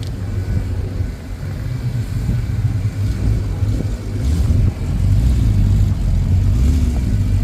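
Car engine running with a low rumble that grows louder about halfway through.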